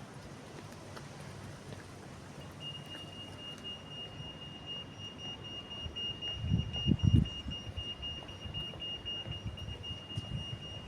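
Level crossing warning alarm sounding: a steady high-pitched electronic tone starting about two and a half seconds in, the signal that the barriers are about to come down for a train. A brief low rumble about six seconds in.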